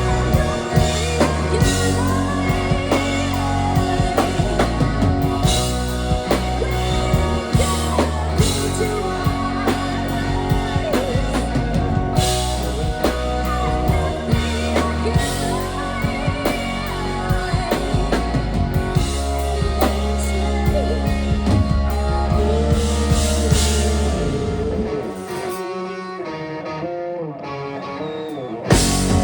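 Rock band playing live: drum kit, guitar and bass with singing. Near the end the band drops to a quieter, thinner passage for a few seconds, then comes back in at full strength.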